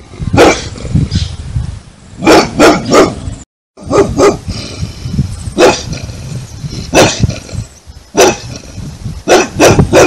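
Big boxer-type dog barking loudly, about a dozen barks, some single and some in quick runs of two or three, with a brief break about three and a half seconds in.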